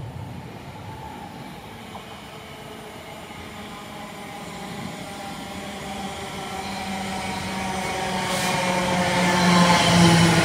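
West Midlands Railway Class 730 Aventra electric multiple unit approaching along the platform, growing steadily louder. Its electric traction gives a whine of several steady tones over the wheel and rail rumble.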